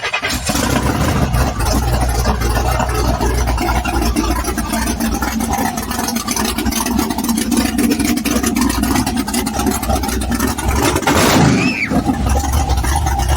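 Big lifted truck's engine running loud and steady just after starting, with a deep rumble and a short rise in level about eleven seconds in; loud enough to almost hurt the ears.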